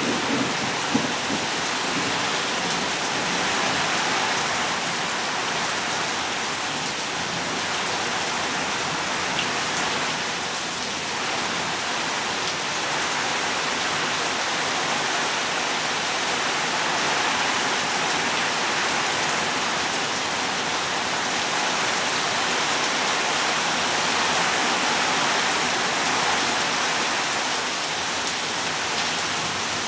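Heavy rain pouring down steadily, a dense, even hiss of rain on surfaces.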